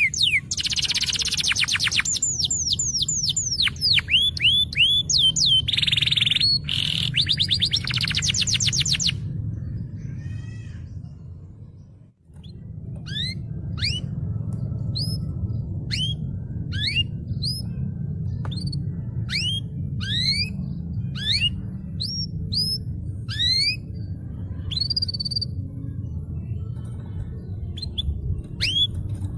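Domestic canary singing: dense rapid trills and rolls of fast falling notes, fading out about twelve seconds in. After a brief gap come separate sweeping whistled notes, about one or two a second, over a steady low hum.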